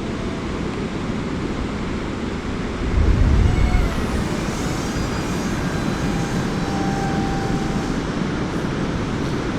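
Wind buffeting the microphone, with a stronger gust about three seconds in. Faintly under it, the whine of a small electric RC plane's motor shifts in pitch through the middle.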